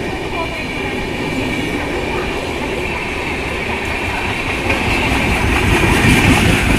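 Superfast express train running through a station at speed: steady rumble and clatter of its coaches' wheels on the rails. It gets louder near the end as the last car, a power car, passes close.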